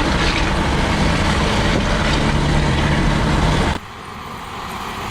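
A heavy vehicle engine running hard, a loud steady drone mixed with dense noise, which cuts off abruptly nearly four seconds in to a quieter engine sound.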